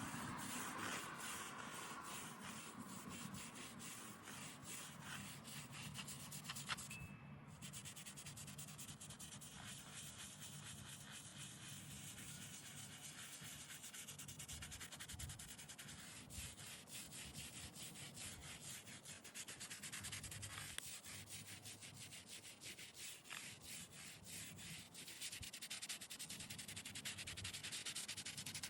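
Faint, rapid scrubbing strokes rubbing against a headstone's stone surface, going on steadily with a single sharp click about a third of the way through.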